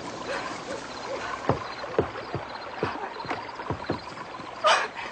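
Night-time nature sound effects: a small creature's short chirp repeating about three times a second over a faint steady high tone, with a scattering of soft knocks and a louder rustle near the end.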